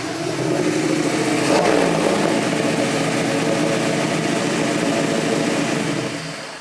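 Car engine running under light throttle, its revs and level rising slightly in the first couple of seconds, then holding steady before fading out near the end.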